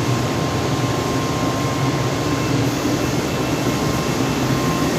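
Steady machinery drone: an even low hum with a thin, high whine over it.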